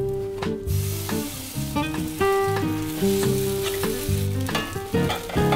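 Potato pancake batter sizzling in butter and oil in a cast iron skillet, with a metal spatula scraping and pushing it across the pan. Background music with plucked notes plays throughout.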